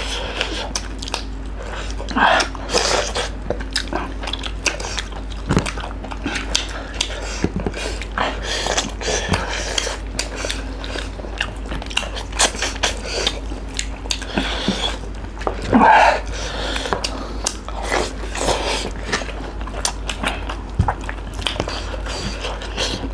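Close-up eating sounds of two people eating fried chicken wings and curry with rice by hand: chewing and biting with many small wet mouth clicks, and two brief louder mouth sounds, one about two seconds in and one about two-thirds of the way through.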